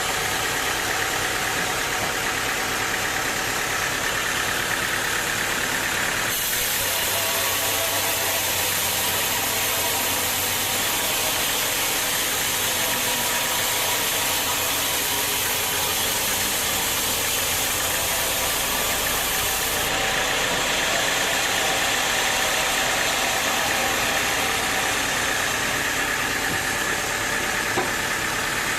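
Sawmill machinery running steadily with an engine-like hum, joined by a brighter high-pitched hiss from about six seconds in until about twenty seconds in.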